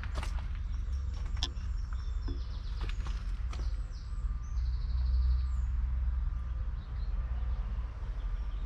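Low, steady rumble of a Case IH Puma 240 CVX tractor's 6.7-litre six-cylinder diesel engine, swelling a little midway, with scattered clicks and clatter and birds chirping.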